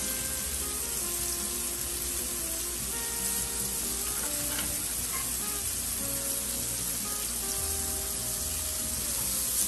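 Shrimp searing in a hot pan, a steady frying sizzle.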